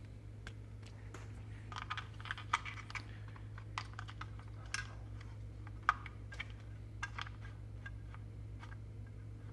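Irregular light clicks and taps of small parts being handled and set into an electronics enclosure while standoffs and a board are positioned for mounting. A steady low electrical hum runs underneath.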